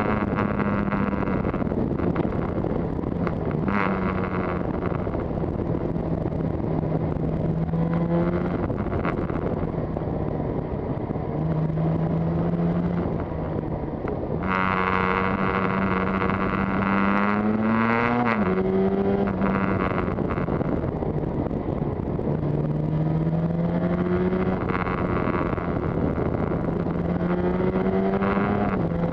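Yamaha TZR250 two-stroke twin motorcycle engine running under way. Its pitch climbs as it pulls through the revs and drops sharply at gear changes: once a few seconds after the halfway point and again near the end.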